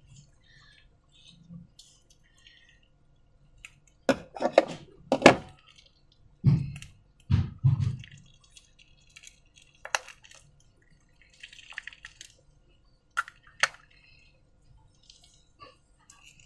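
Slime being worked by hand, with a few low wet squelches between about six and eight seconds in. Around them come scattered sharp clicks and clinks, and light rustling near the twelve-second mark.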